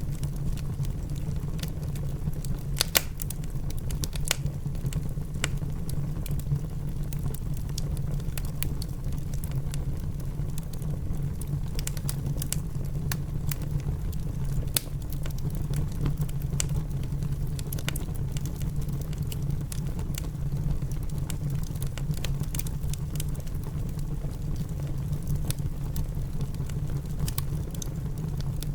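Wood fire crackling in a fireplace, with irregular sharp pops (the loudest about three seconds in), over a steady low rumble of rain heard from inside the house.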